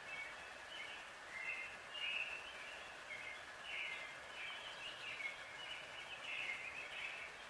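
Songbirds chirping and singing outdoors, a string of short high phrases one after another over a steady faint background hiss.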